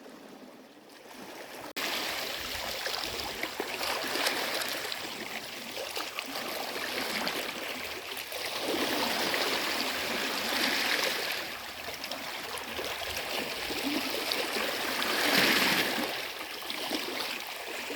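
Small sea waves washing and splashing, swelling twice.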